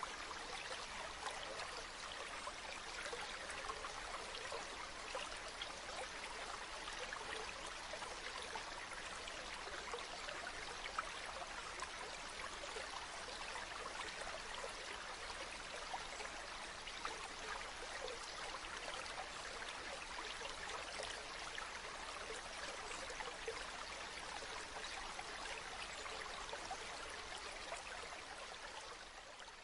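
Spring water running and trickling steadily, an even rushing sound speckled with many small splashes, fading out near the end.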